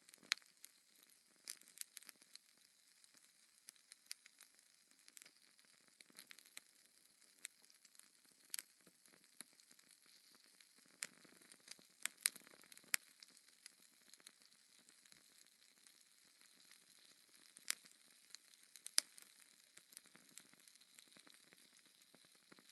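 Burning logs in a wood fire crackling: irregular sharp snaps and pops, a few louder than the rest, over a faint hiss.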